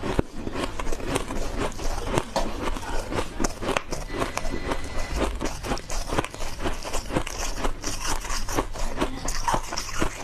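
Big bites of refrozen powdery ice being chewed: a quick, continuous run of soft crunches.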